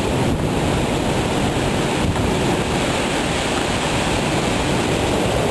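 Severe thunderstorm's straight-line wind and rain, a loud steady rush with no separate impacts, with wind buffeting the microphone.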